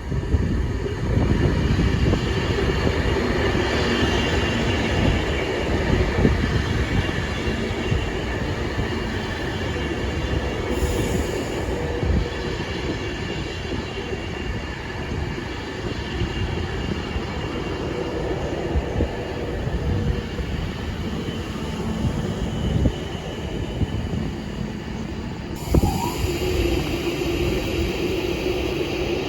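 A train running on the rails: a continuous rumble of wheels on track with steady whining tones over it, changing a little near the end.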